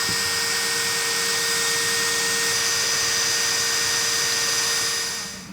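Electric drill running steadily at constant speed, driving a drill pump that draws diesel out of a boat's fuel tank through a hose. The sound fades out near the end.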